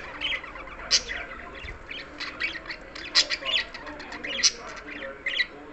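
Budgerigar chattering: a run of short, irregular chirps, warbles and sharp squawks, with louder peaks about a second in, past the halfway mark and near the end.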